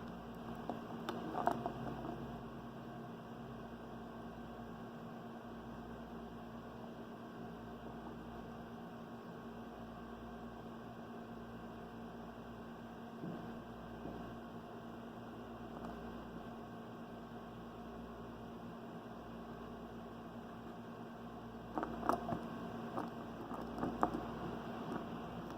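Steady low electrical hum, with a few brief rustling bumps about a second and a half in and again near the end.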